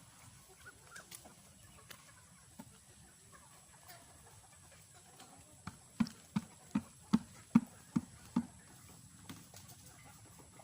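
Free-range chickens clucking faintly, broken in the middle by a run of about eight sharp knocks, evenly spaced at roughly two and a half a second.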